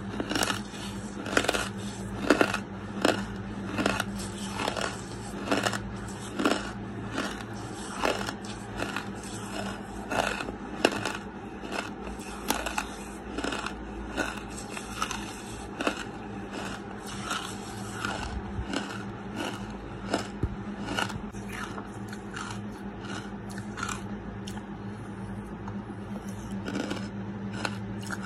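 Close-miked chewing of lump charcoal: gritty crunches and scrapes as the mouthful is ground between the teeth, about one a second, louder in the first half and softer toward the end. A steady low hum runs underneath.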